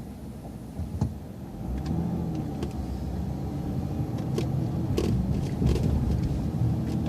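Transit bus engine heard from inside the cabin, a low rumble that grows louder about two seconds in as the bus pulls through a turn and accelerates. A few scattered clicks and rattles sound over it.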